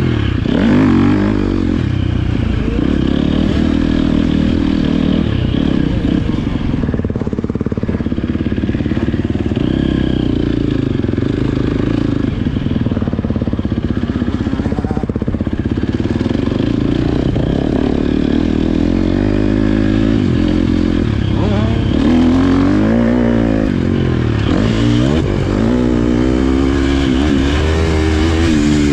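Motocross bike engine revving hard and continuously, its pitch rising and falling with throttle and gear changes, with quick rises and drops in the last few seconds.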